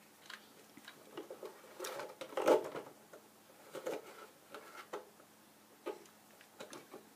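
Small plastic toys being handled: scattered light knocks and clicks, with a louder clunk about two and a half seconds in.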